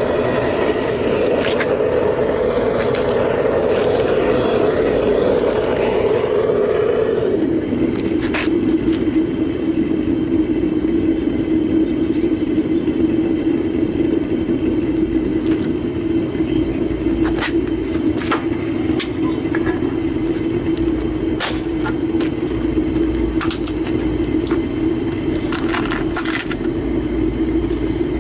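Propane burner running steadily in a homemade foundry furnace while aluminum melts in the crucible. About seven seconds in, its tone drops lower and steadies, and sharp crackles and ticks come now and then.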